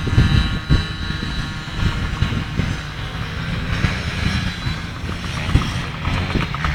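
Motocross bike engine running steadily.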